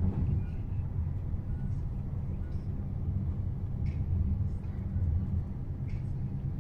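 Steady low rumble of a passenger train running, heard from inside the carriage, with a faint click about every two seconds.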